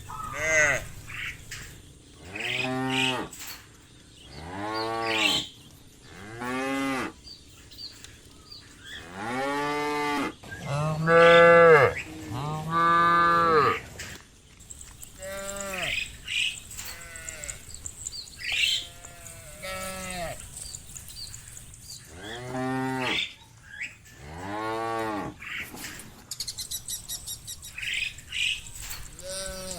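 Cows mooing again and again, about a dozen long calls that each rise and fall in pitch, the loudest run coming in the middle.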